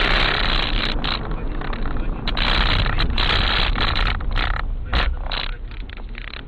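Car on the road, heard from inside: steady road noise with a few sharp knocks, fading near the end.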